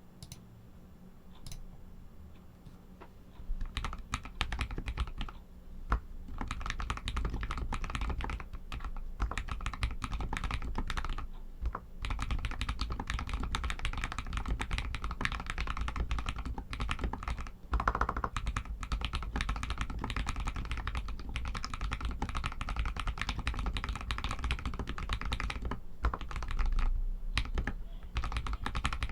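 Typing on an RK61 mechanical keyboard with Outemu Red linear switches: a few scattered keystrokes, then fast, continuous typing from about three and a half seconds in.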